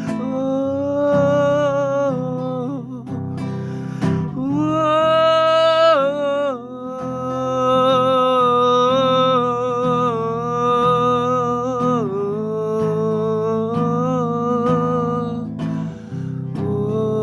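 Acoustic guitar playing chords under a wordless vocal melody of long held, gliding notes.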